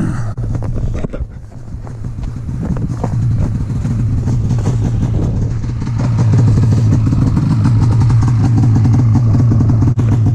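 Two-stroke snowmobile engine running, growing louder over the first several seconds and then running steadily from about six seconds in.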